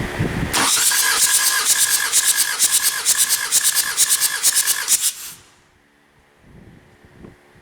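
Hyundai D4BF four-cylinder diesel engine cranked on the starter for a compression test: loud rhythmic hissing puffs, several a second, that stop abruptly a little after five seconds in.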